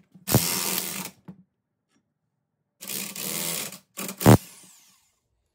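U-joint being pressed out of a Dana 30 axle shaft yoke: short bursts of a power tool turning the press, with a sharp crack about four seconds in as the bearing cap gives.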